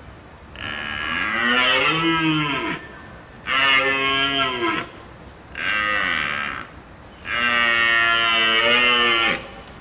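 Cow mooing: four long moos with short pauses between them, the first and last the longest.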